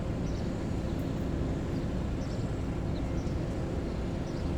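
Steady low rumble of a running vehicle or traffic, with a faint steady hum and no clear events.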